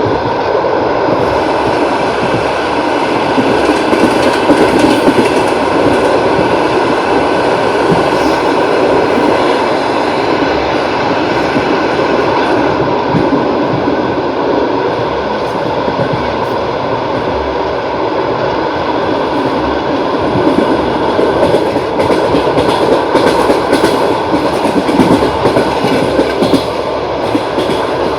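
Russian long-distance passenger train running along the track, its wheels clattering steadily on the rails, with a denser run of clicks in the last few seconds.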